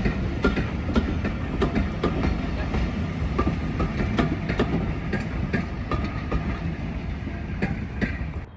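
A train rolling past at close range: a steady low rumble with frequent sharp clicks and knocks from the wheels and rail joints. It cuts off abruptly near the end.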